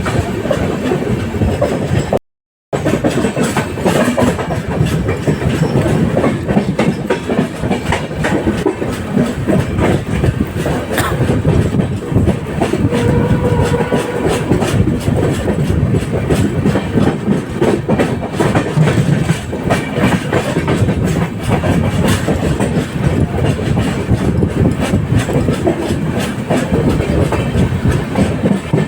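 Moving express train with LHB passenger coaches running at speed, the wheels clattering steadily on the rails. The sound briefly cuts out about two seconds in.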